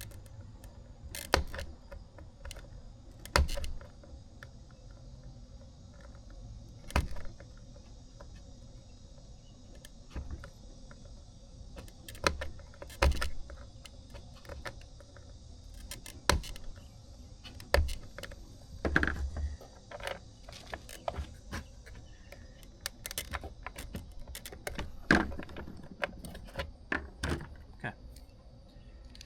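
Irregular clicks, taps and short rattles of small hard parts and tools being picked up and set down on a workbench, over a steady high chirring of crickets.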